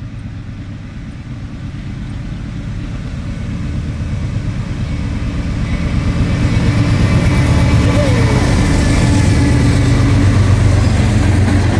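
Two BNSF diesel freight locomotives approaching at speed, their engine drone and rumble growing steadily louder as they near.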